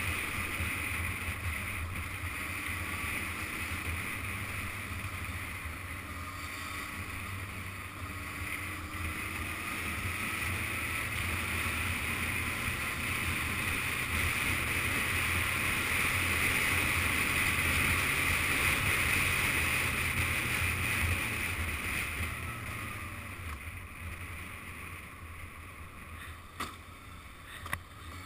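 Yamaha FZS600 Fazer's inline-four motorcycle engine running under way, mixed with steady wind rush, with a slight rise and fall in engine pitch. It grows louder until about two-thirds through, then eases off, and two sharp clicks come near the end.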